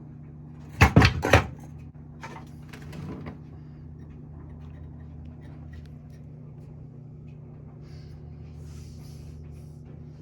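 A quick run of three sharp knocks about a second in, then a couple of fainter knocks, over a steady low hum.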